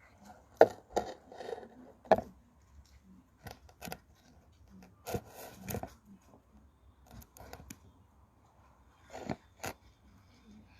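Clothes being scrubbed and handled by hand: short, irregular rubbing and crunching noises with quiet gaps between.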